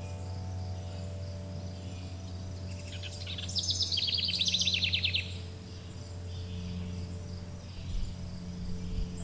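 A songbird sings a fast trill of rapidly repeated notes for about two seconds, starting about three seconds in. Behind it, wind chimes let long held tones ring and die away, and a steady high pulsing chirr runs on.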